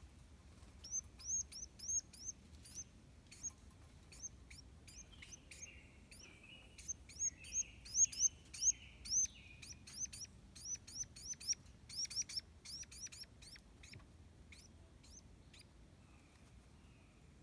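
Small birds at a nest chirping: many short, high-pitched chirps in quick, irregular runs, busiest and loudest about halfway through, with a fainter, lower rasping sound underneath for a few seconds, then fading out near the end.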